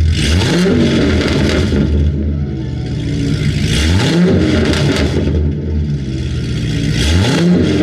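A car engine at idle, revved three times about three and a half seconds apart; each rev climbs quickly in pitch and drops back to idle.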